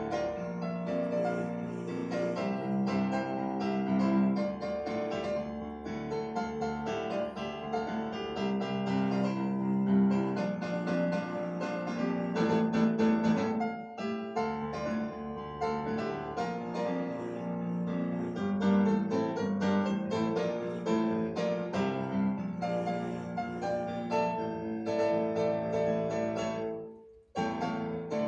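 Background piano music, continuous, with a brief break about 27 seconds in.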